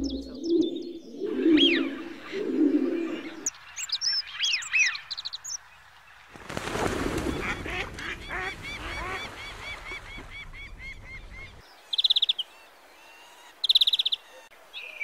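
A flock of geese honking, in a dense chorus of many overlapping calls, with ducks calling among them; the sound changes abruptly a few times. Near the end, short rapid high trills from a small bird.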